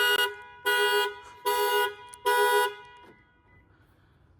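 Car alarm sounding the car's two-tone horn in short, regular blasts, about four in all, less than a second apart, then stopping near the end.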